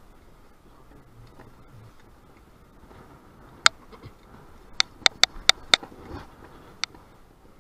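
Sharp clicks or taps over a faint low background noise: one about three and a half seconds in, a quick run of five about a second later, and one more near the end.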